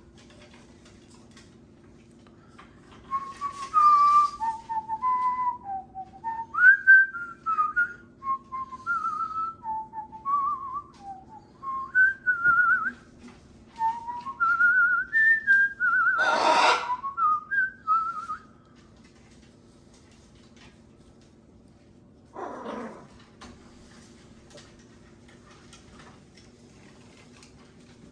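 A melodic whistled tune of wavering, trilling notes running for about fifteen seconds, with a short, harsh macaw squawk near its end and another, quieter one a few seconds later. A faint steady hum sits underneath.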